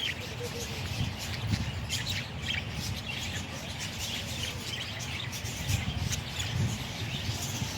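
Budgerigars chirping in short, scattered calls over a steady low rumble.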